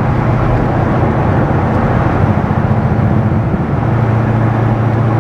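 C6 Corvette Z06's 7.0-litre LS7 V8 running under way, a steady low engine note over road noise; about three and a half seconds in the note drops to a lower, steadier tone.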